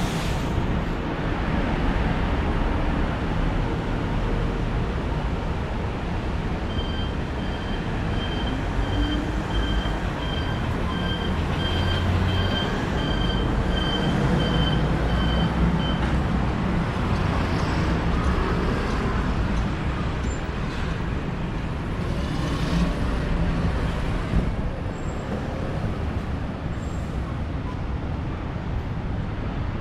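Steady city street traffic noise. For about nine seconds, starting about a quarter of the way in, a high electronic beep repeats at an even pace.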